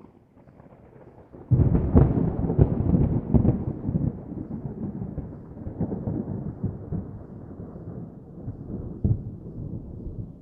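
Stormy surf and wind at the shore: a sudden loud, deep rush about a second and a half in that slowly dies away, full of low rumble.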